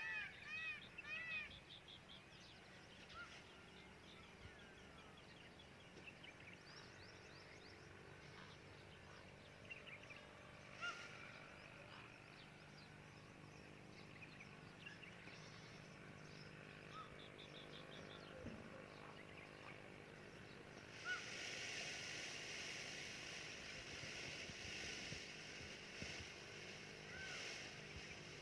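Faint outdoor ambience with scattered bird chirps and calls: a quick run of repeated arched notes at the very start, then occasional short chirps. A steady hiss comes up about three-quarters of the way through.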